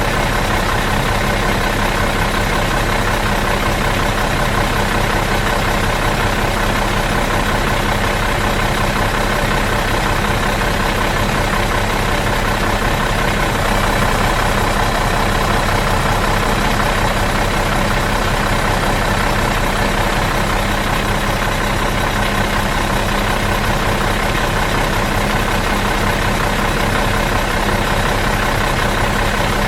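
Bus diesel engine idling out of gear with a steady, even hum that does not change.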